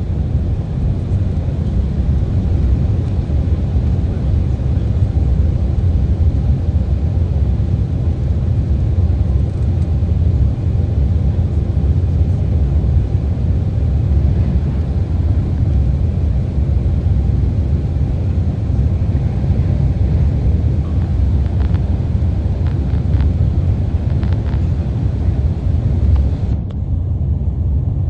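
Steady low rumble of an Embraer 190 airliner with its General Electric CF34 turbofan engines running. The higher hiss drops away abruptly near the end.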